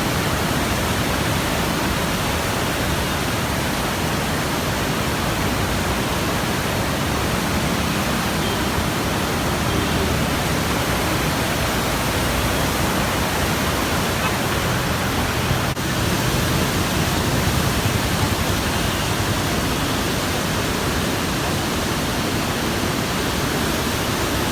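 Floodwater pouring through the open gates of the Krishna barrage: a loud, steady rush of water.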